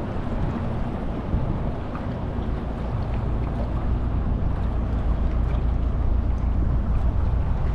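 Boat motor running steadily under way, a low rumble mixed with wind buffeting the microphone and water rush.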